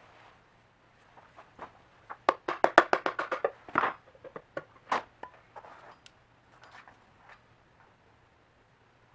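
Metal clicks and knocks of hand tools working on a Honda GB250 engine being taken apart, with a quick run of about ten rapid clicks a little over two seconds in, then scattered single clicks.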